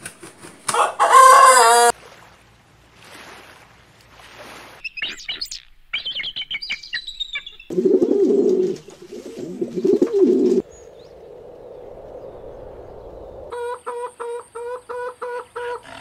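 A run of bird sounds one after another. A rooster crows loudly for about a second near the start, and brief high chirps follow. A pigeon coos in low, pulsing phrases about eight seconds in. Near the end comes a quick run of about nine short, evenly spaced calls.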